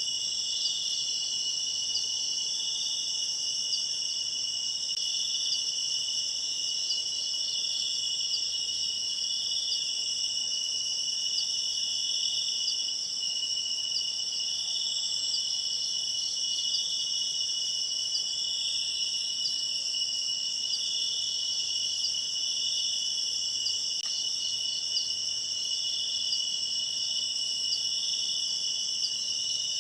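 Steady chorus of night insects, crickets among them, shrilling in several high-pitched layers, with one layer pulsing about every second and a half.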